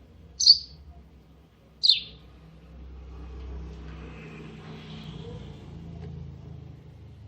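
A bird gives two short, sharp, high calls about a second and a half apart, the second sliding downward in pitch. After that a low rumble comes in and runs on under faint higher noise.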